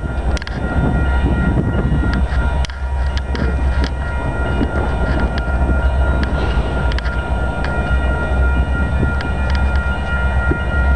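A train approaching from a distance along the mainline, heard as a steady low rumble with a few sharp clicks over it.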